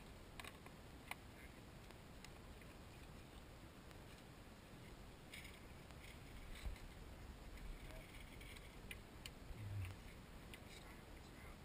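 Near silence: faint background hiss with a few light clicks and a couple of soft low thumps.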